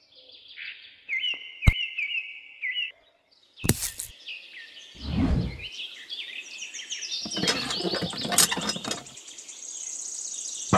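Birds chirping in quick repeated calls, with a high trill near the end. A sharp click comes a little under two seconds in, and a knock just before four seconds.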